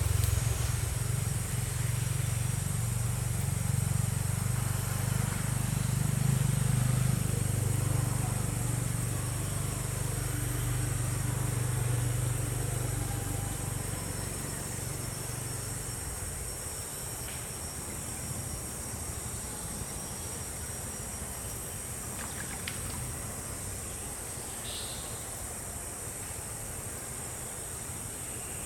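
Low engine rumble that fades out about halfway through, over a steady high-pitched hiss, with a few faint ticks and a short high call near the end.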